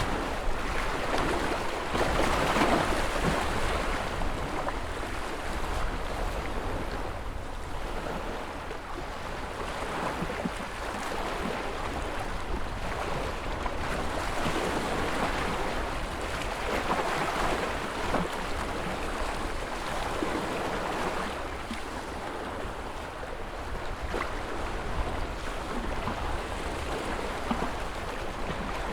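Ocean surf: waves washing in, swelling and fading every several seconds over a steady low rumble.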